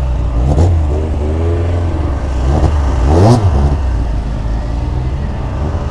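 Mk1 Volkswagen Golf race car's engine revving as it pulls away, its pitch rising with throttle blips, loudest about three seconds in, over a steady low engine note.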